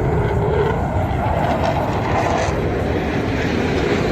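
Jet engine roar of Blue Angels F/A-18 Super Hornets in flight. A steady, loud rushing noise, with a pitch that slides down early on as the jets pass.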